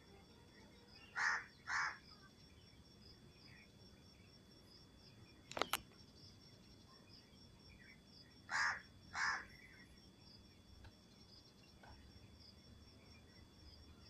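Bird calling: two short calls in quick succession about a second in, and two more about eight and a half seconds in. A brief sharp click comes near the middle, over a faint steady high insect trill.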